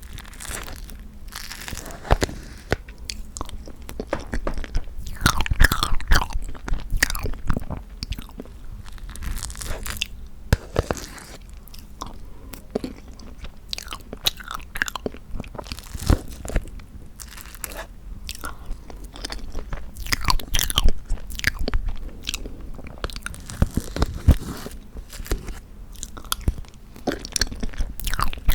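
Close-miked mouth sounds of eating tofu tiramisu: wet, sticky chewing and biting with many small irregular clicks and smacks.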